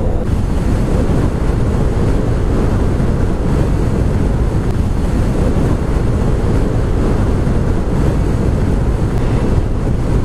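Steady wind rush buffeting the camera microphone on a motorcycle moving at road speed, with engine and road noise underneath.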